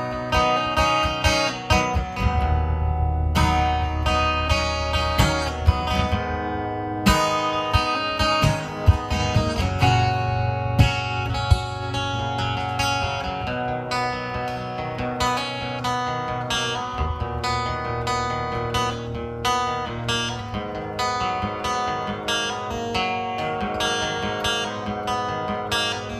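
Instrumental acoustic guitar passage, picked and strummed chords over a sustained low bass line, with no singing.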